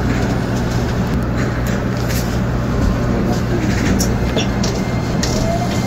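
Keikyu Main Line local train running, heard from on board: a steady low rumble with scattered light clicks.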